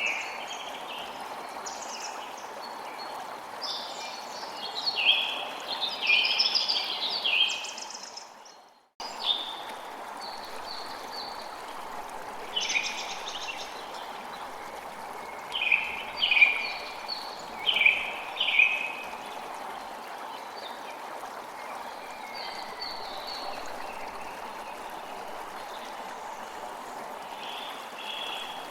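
Birds chirping in short clusters over the steady rush of flowing water. About eight seconds in, the whole soundscape fades out to silence for a moment, then cuts straight back in, as at a loop point in the recording.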